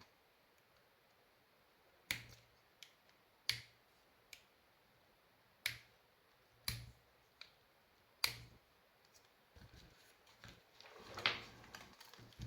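A series of sharp clicks and taps from handling parts and tools on a workbench, about half a dozen spaced a second or two apart, followed near the end by a short stretch of rustling and scraping.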